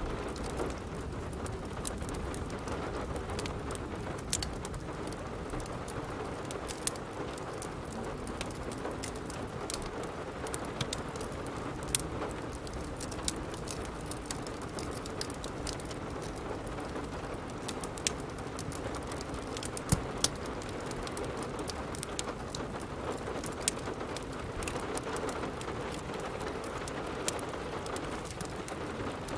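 Steady rain with a wood fire crackling: scattered sharp pops and snaps, a few louder ones in the middle, over an even hiss of rain.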